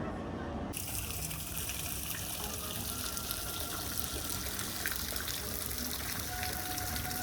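Steady rush of splashing water. It starts abruptly about a second in.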